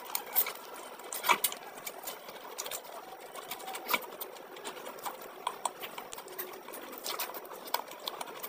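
Close-miked wet chewing and lip-smacking of oily chicken curry eaten by hand: irregular sharp smacks and squelches, several a second, a few louder ones standing out.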